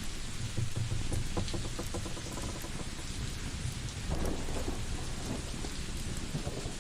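Steady rain hiss with a low rumble of thunder that swells and fades, and scattered crackles from a wood fire, in clusters about a second in, around the middle and near the end.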